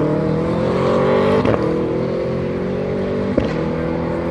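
GT race car engine accelerating, its pitch climbing steadily with two upshifts, each a quick drop in pitch with a short crack: one about a second and a half in, the other near the end.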